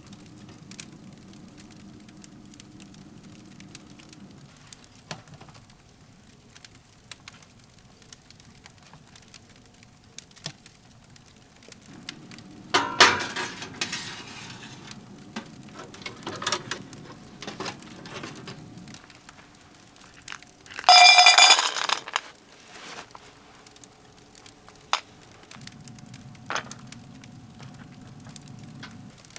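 Firewood crackling in a wood stove, with scattered sharp pops over a low steady hum. Dishes clink: a clatter about halfway through, and a louder clink about two-thirds through that rings for about a second.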